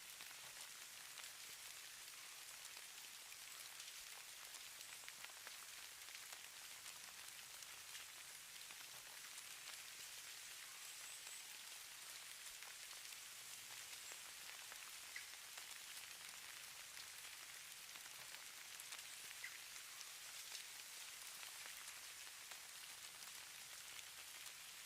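Light precipitation falling steadily on a surface, sold as falling snow: a soft, even hiss with faint scattered ticks throughout.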